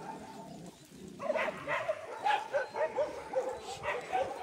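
Several dogs barking and yipping in quick, overlapping short barks that start about a second in.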